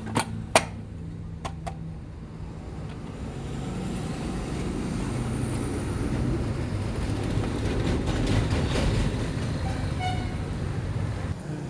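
A few sharp knocks in the first two seconds as the engine's crankcase half is pressed and tapped down onto its gasket, then a low rumbling noise that swells and eases again.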